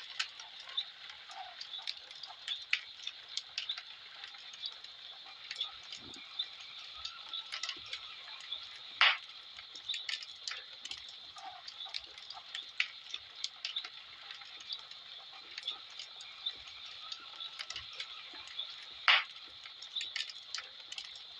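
Wood fire crackling in a fireplace: irregular small pops and clicks over a faint steady hiss, with a louder snap about nine seconds in and another near the end.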